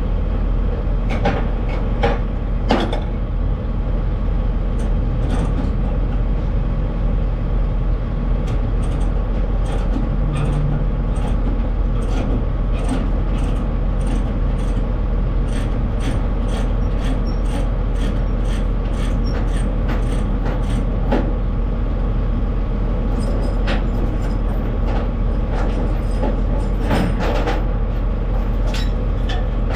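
Steady engine and road drone of a semi-truck heard from inside the cab while driving, with frequent small clicks and rattles.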